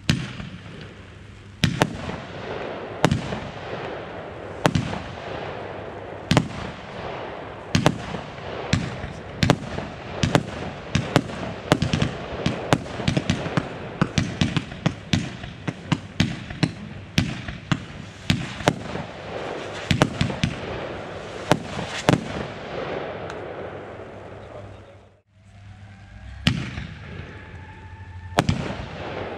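Consumer fireworks battery firing: a rapid, irregular string of launch thumps and loud bangs with crackling between them, stopping suddenly about 25 seconds in. A second later firing starts again, with rising whistles and more bangs.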